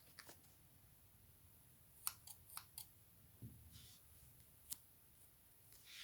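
Scissors cutting paper: a quick run of four faint snips about two seconds in and one more near five seconds, with soft paper rustling between them.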